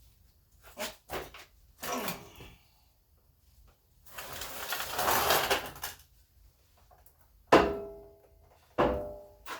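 Workshop handling noises: a few light knocks, a rasping scrape in the middle, then two sharp metal clanks that ring briefly, the first the loudest, as metal parts knock together.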